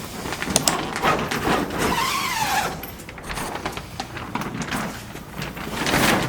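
Irregular knocks and clatter, with a short wavering squeak about two seconds in.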